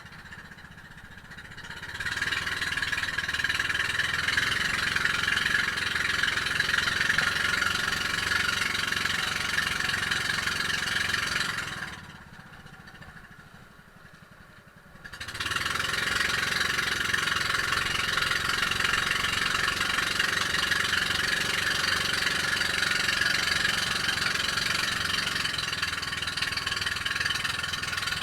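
Boat engine running steadily. The sound swells up about two seconds in, fades away for a few seconds near the middle, then comes back.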